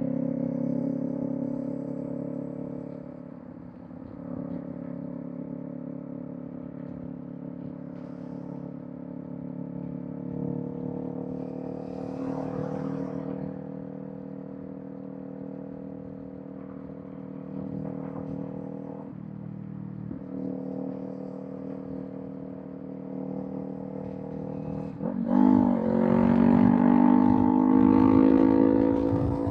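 Kawasaki Z400 parallel-twin engine through a Villain M1 aftermarket exhaust, running at steady cruising revs that creep slowly upward. About 25 seconds in the throttle opens: the exhaust gets suddenly louder and its pitch climbs as the bike accelerates, easing a little right at the end.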